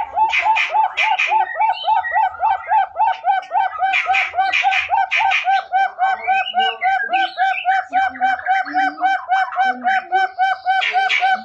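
Hill partridge (puyuh gonggong) calling: a fast, unbroken series of short hooked whistles, about four or five a second. Louder, rougher bursts of higher calls come in three times: at the start, about four seconds in, and near the end.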